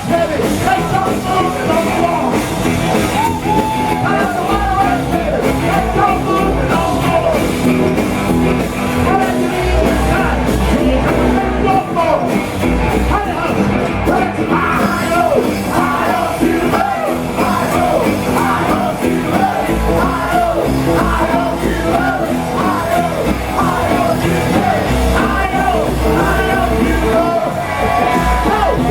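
A rock and roll band playing live and loud, with yelled singing over the music.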